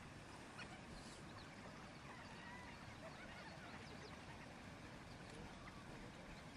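Faint, scattered high chirps and squeaks of animal calls over a low, steady background noise.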